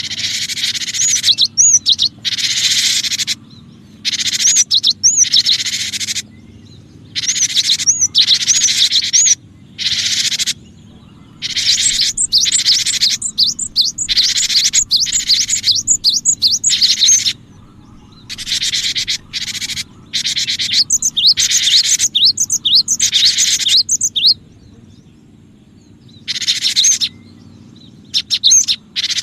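Cinereous tit (gelatik batu) calling in repeated bursts of high chirping, each about one to two seconds long, with quick up-and-down whistled notes and short pauses between them, and a longer pause near the end.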